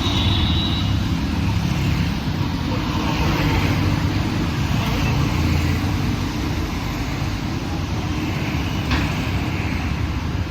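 Busy city road traffic: a steady rumble of engines and tyres from passing vehicles, with a brief high tone at the start and a sharp click about nine seconds in.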